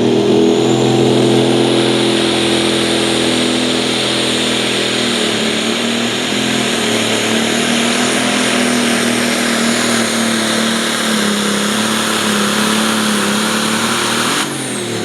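Pulling tractor's diesel engine running hard at high revs, its pitch slowly sagging, then cut off abruptly near the end.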